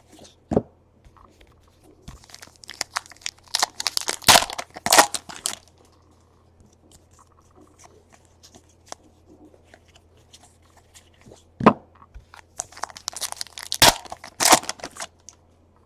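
Trading card pack wrappers being torn open and crinkled, in two spells of crackling rustle with a few sharp snaps, the second about ten seconds after the first.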